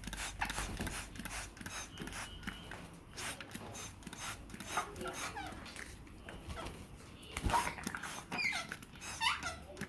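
African grey parrots squeaking and chattering, with short whistled squeaks that slide up and down, most of them near the end, over frequent irregular sharp clicks and taps.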